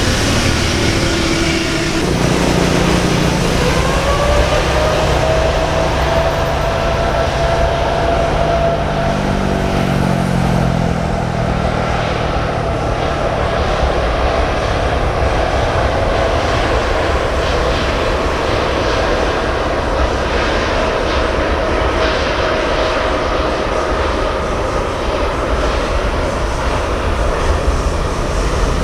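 Jet airliner engines running close by: a loud rumble with an engine whine that rises a few seconds in, then holds and slowly falls toward the end.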